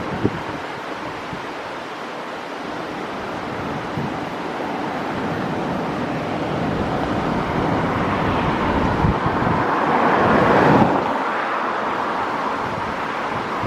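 Wind buffeting the microphone over a steady rush of surf, swelling to a peak about eleven seconds in and then easing off.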